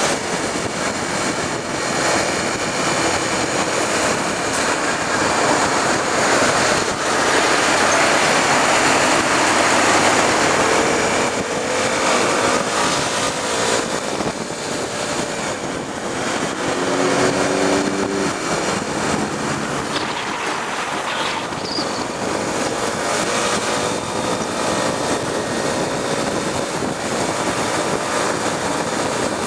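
Honda Tornado single-cylinder motorcycle under way at road speed: heavy wind rush over the microphone, with the engine's pitch rising and falling as it changes speed, among traffic noise.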